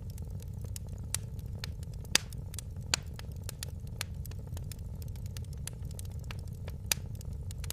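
Fireplace wood fire crackling: a steady low rumble of burning under frequent small snaps, with a few sharper pops, the loudest about two seconds in.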